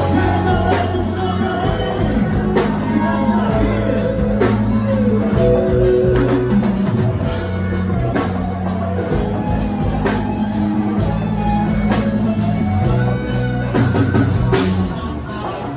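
Loud band music in a rock style: drum kit keeping a steady beat over bass notes, with a voice singing.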